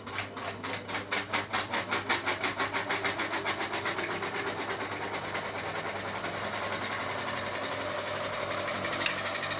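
Ceiling fan spinning up: a rhythmic clicking speeds up until it blurs into a steady whir, over a low electrical hum. It cuts off sharply with a click near the end.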